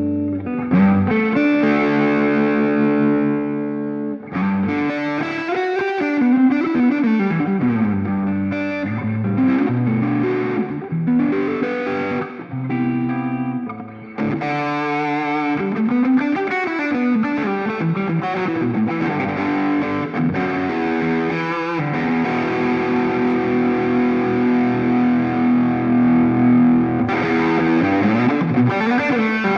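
Electric guitar played through a Ring Red Swan distortion pedal: distorted riffs with bent notes, then longer held chords in the last third.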